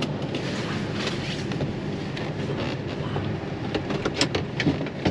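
Vehicle engine and road noise: a steady low hum with a few short clicks and rattles, the sharpest about four seconds in.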